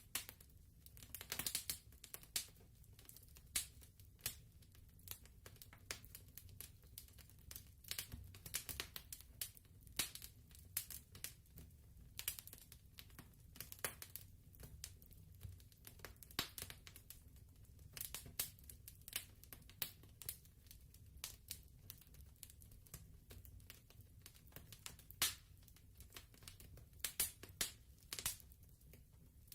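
Wood fire crackling softly, with irregular snaps and pops over a low steady rumble.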